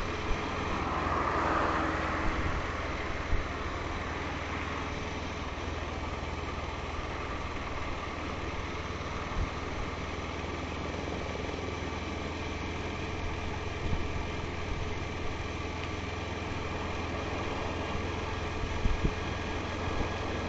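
Motorcycle engine running steadily: a low, even hum under a steady rushing noise, with a few brief knocks.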